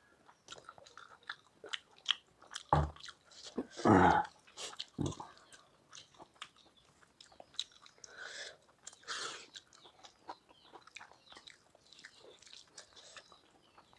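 Close-up chewing and wet mouth sounds of two people eating rice and palak paneer by hand from steel plates, with many small clicks. There are a few louder thumps about three to five seconds in, the loudest near four seconds.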